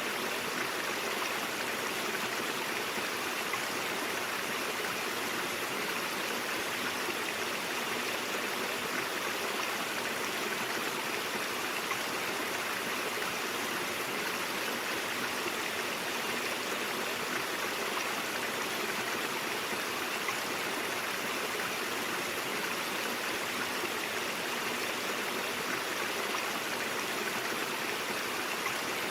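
A flowing stream: water running steadily over rocks in an even, unbroken rush.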